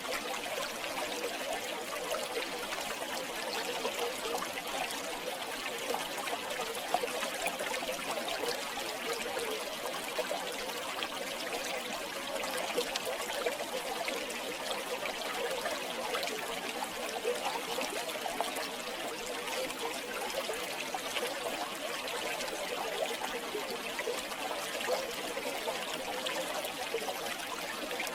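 River water flowing over stones: a steady babbling and trickling with small splashes throughout.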